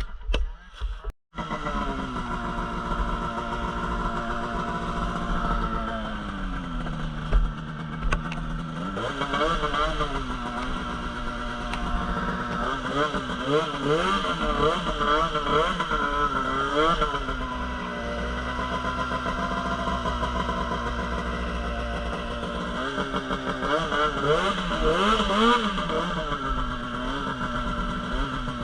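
Snowmobile engine running, steady at first and dropping in pitch about six seconds in. From about nine seconds on it revs up and down repeatedly, as in riding through deep snow.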